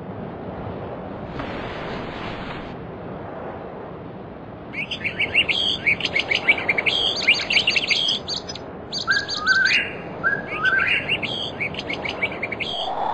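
Birds chirping in quick, rapid trills that start about a third of the way in, with two short upward-sliding calls near the middle, over a steady soft hiss.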